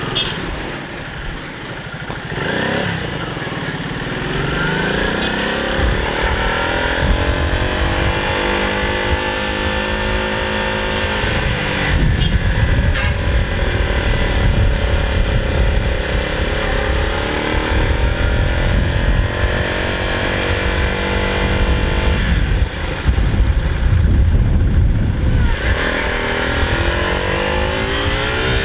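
Honda motorcycle engine running under way, with strong wind rumble on the mic. The engine pitch climbs as the bike accelerates, holds steady, eases off a couple of times and climbs again near the end.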